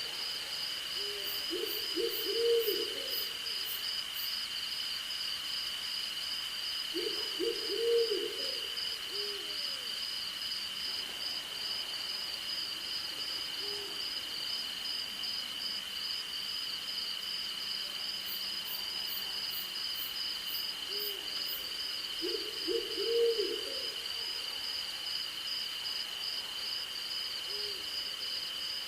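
Night insect chorus of crickets, one steady high whine and a fast pulsing trill above it, with an owl hooting in short runs of three or four low notes at the start, around 2 s, about 7 s and about 23 s, and a few single fainter hoots between.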